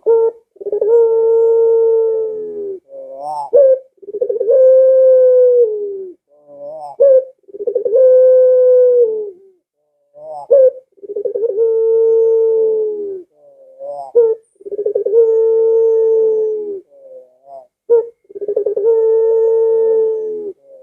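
A puter (Barbary dove) cooing in the long-drawn 'pelung' style: six long, level coos of about two seconds each, repeated every three to four seconds, each one led in by a few short clipped notes.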